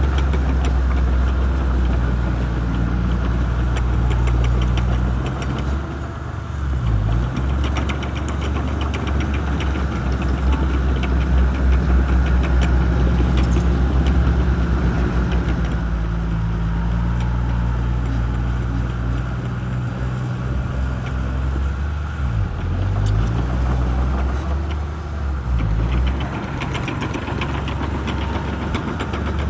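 Shantui crawler bulldozer's diesel engine running under load, its pitch dipping and recovering several times as the load changes. Runs of fast, even clanking, typical of steel crawler tracks, come and go over it.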